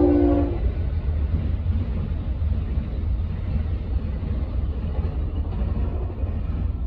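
Passenger train passing, a steady low rumble of the rolling cars with a noisy rush above it. A few held tones stop about half a second in.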